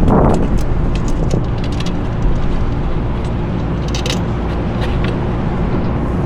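Steady low background rumble with a faint hum, and a few scattered light clicks and taps of metal parts being handled.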